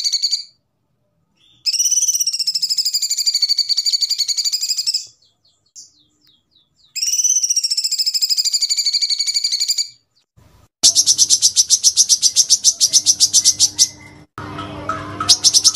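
Recorded songbird song of kapas tembak and cucak cungkok: a long, fast, rattling trill repeated three times with short pauses, each about three seconds. About eleven seconds in, a different, louder rapid pulsing trill begins over a low hum, breaks off briefly and starts again.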